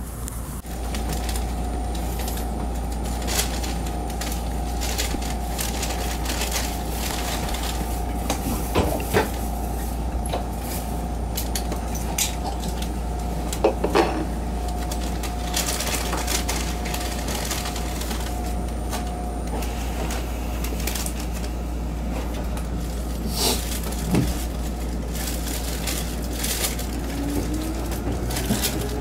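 Seibu 10000 series limited express train running, heard from inside the car: a steady rumble of wheels on rail with sharp clacks over rail joints now and then. A steady whine runs through the first two-thirds, and a tone rises in pitch near the end.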